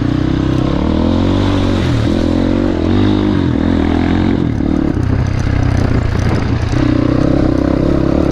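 Crossfire 250 dirt bike engine running under way, its pitch rising and falling with the throttle in the first few seconds, then holding steadier.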